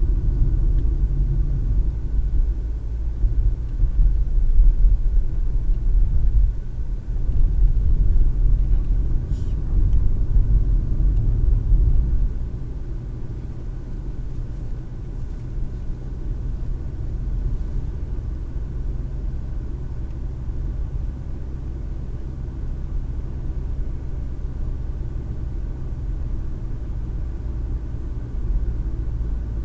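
Car driving on the road, heard inside the cabin: a steady low rumble of tyres and engine, louder and rougher for about the first twelve seconds, then settling to a quieter, even level.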